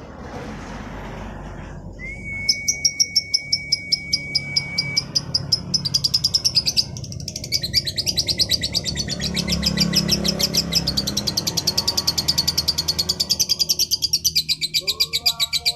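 Female lovebird singing: a steady high whistle about two seconds in, then a long, fast run of short high chirps that quickens and becomes a dense, continuous trill.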